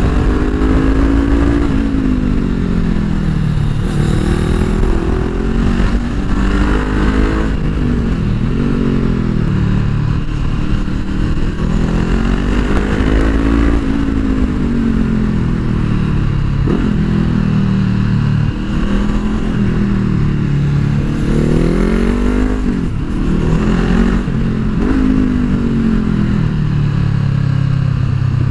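Honda CBR500R's parallel-twin engine being ridden hard, its pitch rising under acceleration and falling back off the throttle again and again, with steady wind rumble. Heard through a microphone inside the rider's helmet.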